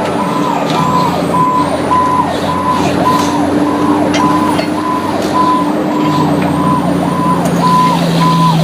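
Fire truck's electronic siren cycling about twice a second: each cycle holds a high tone, drops and sweeps back up. A steady low hum runs underneath, and a second, lower tone joins about six seconds in.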